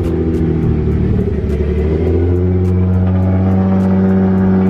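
Nissan 350Z's V6 engine with a Tomei exhaust running loud while the car is driven. Its pitch shifts unevenly for about the first two seconds, then holds steady.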